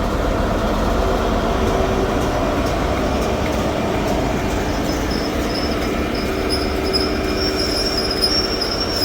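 ScotRail HST Class 43 power car's MTU diesel engine idling steadily while the train stands at the platform before departure, with a faint high whine coming in about halfway through.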